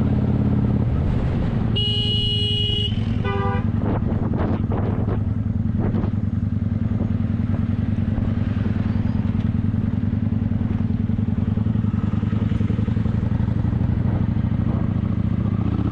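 Motorcycle engine running steadily while riding. About two seconds in, a horn sounds once for under a second, followed by a few shorter beeps.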